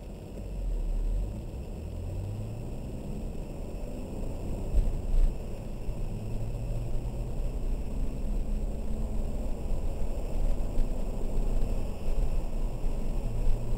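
BMW 330i ZHP's straight-six engine heard from inside the cabin, pulling away and rising in pitch several times as it accelerates through the gears, over steady road and tyre noise. A couple of sharp thumps come about five seconds in.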